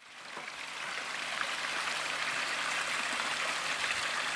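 Rushing water of the Kivach waterfall, a steady even hiss of falling and flowing water that fades in over the first second.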